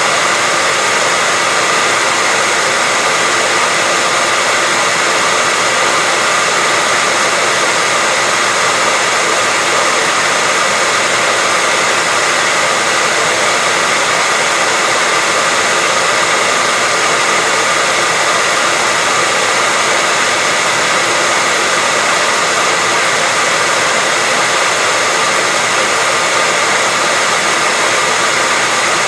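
Hairdryer running steadily: an even, unbroken rush of airflow noise with a faint motor whine held at one pitch.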